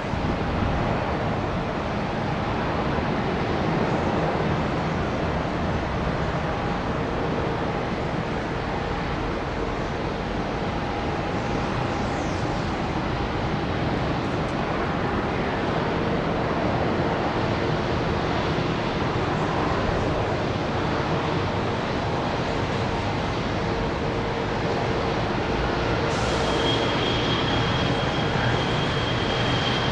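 Boeing 787 jet engines on final approach: a steady rush with faint hums, and a high whine coming in near the end as the sound grows a little louder.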